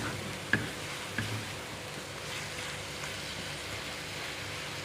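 Sambal sotong (squid in chilli paste) sizzling steadily in a frying pan, with three sharp clicks of a utensil against the pan in the first second or so.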